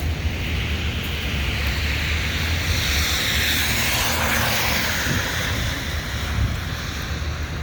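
A vehicle passes on a slushy, snow-covered street: tyre hiss swells for a few seconds, peaks about halfway through and fades, over a steady low rumble.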